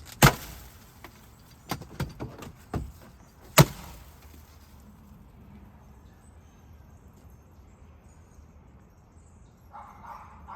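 Two confetti cannons popping, the first just after the start and the second about three and a half seconds later, with a few softer clicks between them.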